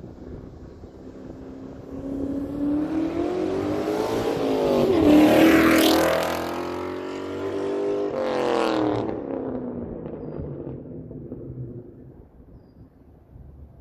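Ford Mustang Mach 1's 4.6-litre V8 through a Carven aftermarket exhaust, accelerating past. Its note climbs to a loud peak about five seconds in, drops at a gear change, climbs again, then fades away.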